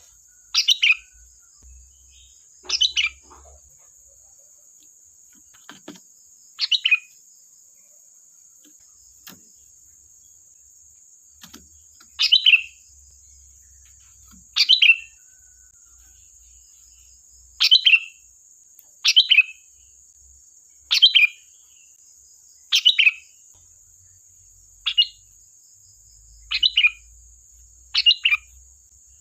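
Sooty-headed bulbul (kutilang) giving about a dozen short, sharp calls, spaced one to a few seconds apart, over a steady high-pitched hiss.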